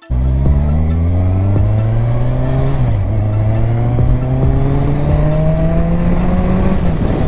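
Kawasaki Ninja 1000's inline-four engine pulling under steady acceleration. Its pitch climbs slowly, drops with an upshift about three seconds in, then climbs again until another drop near the end.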